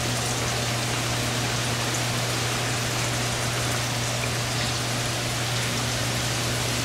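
Battered bowfin pieces frying in hot oil: a steady, even crackling sizzle with a constant low hum underneath.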